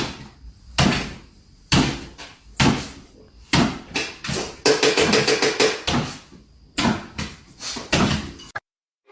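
Repeated knocking or banging, about one hard knock a second, each ringing on briefly. About halfway through comes a quick rattle of taps, and the knocking cuts off abruptly near the end.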